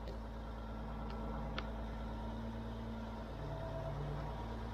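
Mobile crane's engine running steadily while its hoist takes the cable up, with a couple of faint clicks.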